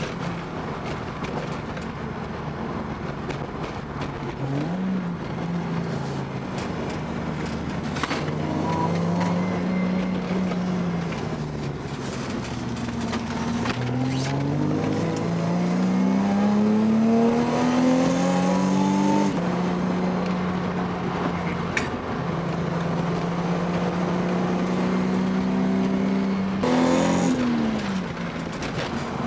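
Car engine heard from inside the car while driving, its revs rising and falling. It pulls up steadily through the middle, drops suddenly at a gear change, then runs steadily, with another short blip near the end.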